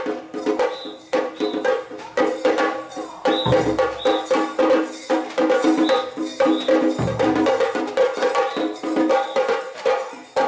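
Mikoshi bells ringing in a rhythmic jangle with sharp clacks as the portable shrine is shaken by its bearers. A low thud comes twice.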